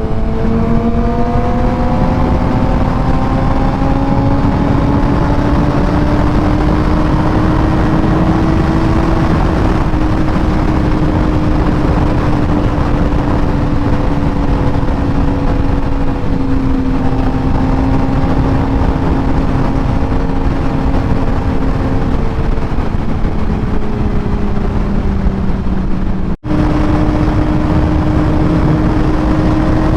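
Sportbike engine running at a steady cruise, its pitch climbing slowly over the first several seconds and then holding, under heavy wind rush. About 26 seconds in the sound breaks off for an instant and comes back a little higher in pitch.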